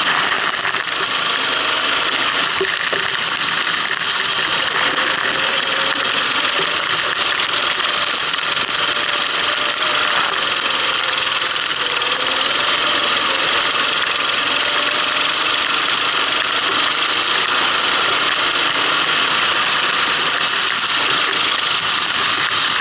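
Kart engine running at a fairly steady speed, its pitch wavering only slightly, under a constant hiss.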